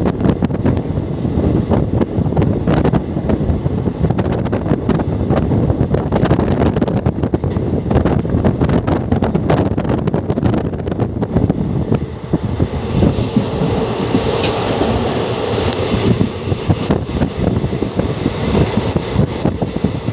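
Express passenger train running at speed: a steady rumble of wheels on rail with dense clicking and clatter. About 13 seconds in, a higher hiss joins and carries on to the end.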